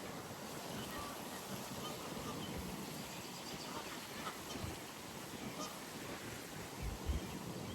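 Geese honking against steady pond ambience, with a couple of low thumps about seven seconds in.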